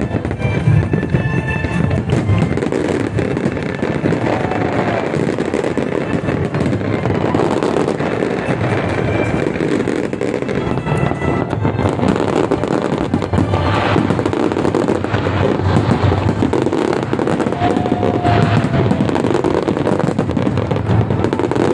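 Fireworks going off in a dense, continuous string of bangs and crackles, with no pauses.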